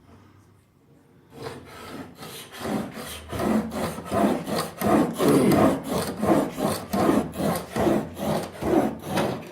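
Steel chisel blade rubbed back and forth on a sharpening stone, about two strokes a second, grinding in a new bevel. The strokes start after about a second of quiet and grow louder.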